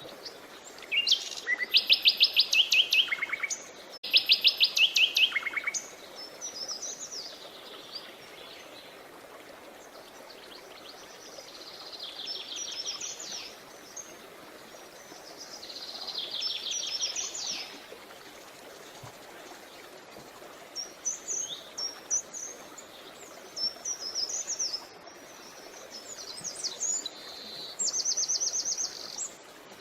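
Songbirds singing in phrases of rapid repeated trilled notes, the loudest about one second and four seconds in, then shorter phrases every few seconds. The steady, faint rush of a creek runs underneath.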